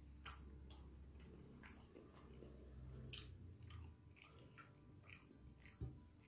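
Faint close-up chewing: soft, wet mouth clicks of a person chewing beef rendang and rice, with a low hum for the first few seconds and a louder knock near the end.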